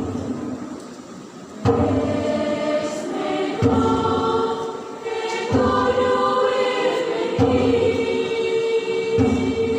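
Church congregation choir singing in several voice parts, held sung notes in phrases. After a quieter moment about a second in, the choir comes back in fully.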